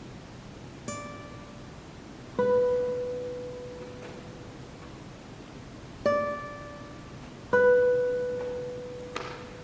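Classical guitars playing sparse single plucked notes, four in all, each struck sharply and left to ring and die away, with gaps of one to three and a half seconds between them, in a piece that imitates falling rain. A faint brief brushing noise comes near the end.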